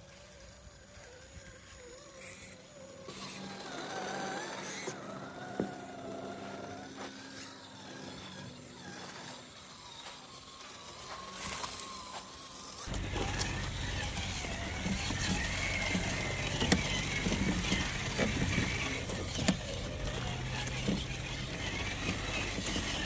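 Radio-controlled crawler truck driving, with its electric motor running and its tires working over the ground. About halfway through the sound changes abruptly to a louder, rougher stretch with scattered clicks.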